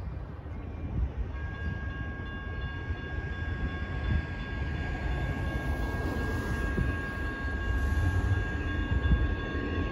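A CSX freight train running by out of sight, with a steady low rumble. About a second in, a steady high-pitched squeal begins and holds.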